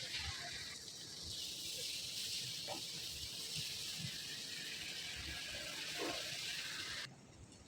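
Food frying in hot oil: a steady sizzle that stops abruptly about seven seconds in.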